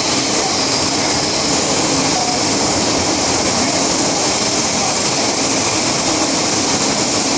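MTR M-Train electric multiple unit running at speed, a steady rumble and hiss of wheels on rail and traction equipment heard from inside the car.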